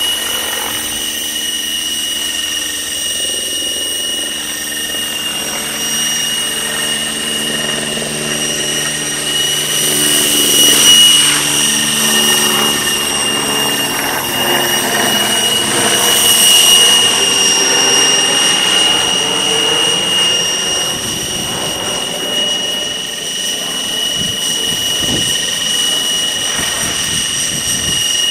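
Outrage Fusion 50 RC helicopter in flight, its nitro engine and rotors giving a steady high-pitched whine that swells louder twice, about 11 and 17 seconds in.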